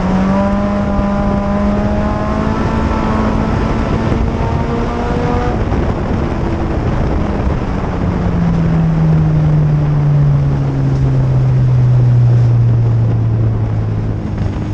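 2004 Chevrolet Cavalier mini-stock's 2.2-litre four-cylinder engine, heard from inside the cabin, running under power at a steady pitch over tyre and road noise. From about eight seconds in, its pitch falls steadily as the revs drop.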